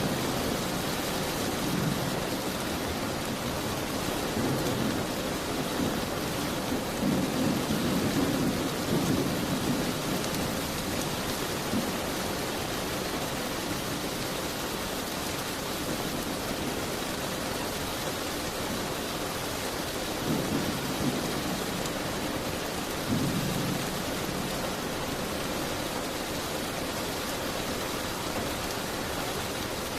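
Steady rain falling, with low rumbles swelling up twice, about a third of the way in and again about two-thirds in.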